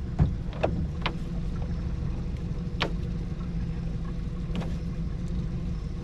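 Steady low rumble of a small fishing boat on the water in strong wind, with about five short sharp knocks scattered through it.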